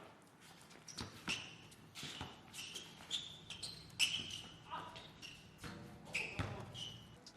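Basketball being dribbled and bounced on a court, with irregular sharp knocks. Short high squeaks of sneakers on the court come and go between them.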